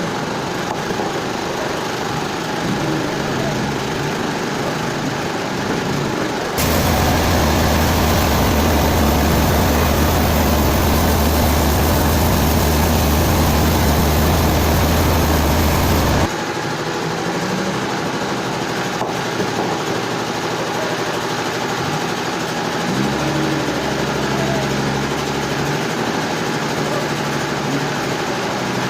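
Sawmill machinery running steadily with an engine-like hum, louder and fuller for a stretch from about 6 seconds in to about 16 seconds, where the sound jumps up and drops back abruptly.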